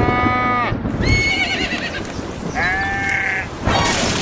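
Bleating farm animal, most like a goat, calling three times: a long call, then a short one, then a third, over a steady low rumble.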